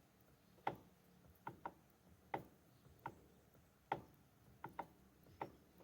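Sharp clicks from a Mitsubishi L200 Triton's steering column as the steering wheel is turned, about ten irregular snaps, one or two a second. The owner likens the click to a seized bearing; the column itself has no play.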